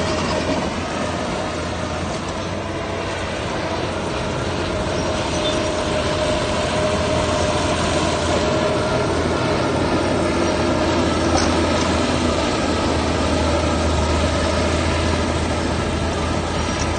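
Heavy diesel machinery running steadily: a continuous engine drone with a low hum and a faint steady whine.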